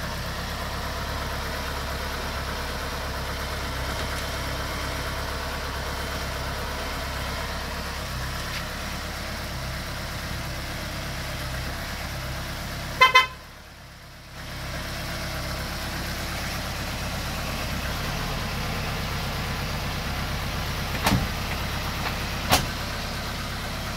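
Tofaş Doğan's engine idling steadily on its first run after standing for two and a half months. About 13 seconds in there is a short car-horn toot, then the sound drops away for about a second, and two sharp clicks come near the end.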